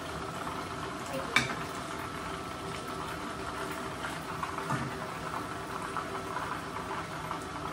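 Chicken drumsticks frying in hot corn oil: a steady bubbling sizzle, with one sharp click about a second and a half in.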